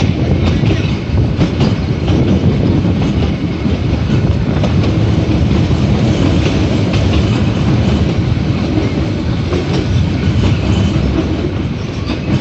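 Metre-gauge passenger train running on the Ooty–Coonoor line: a steady low rumble with irregular clicks of the wheels over the rails.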